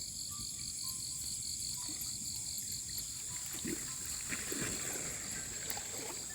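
Night insects: a steady high-pitched drone with a pulsed chirp repeating about four times a second, with faint water splashing and stirring in the middle.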